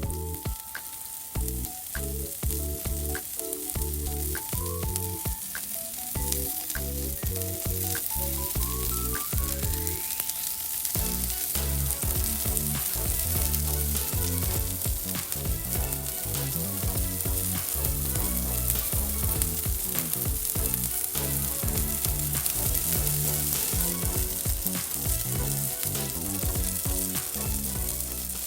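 Yakitori skewers sizzling as they grill over a small solo fire pit, under background music with a melody and a steady bass beat. The sizzling grows stronger about ten seconds in.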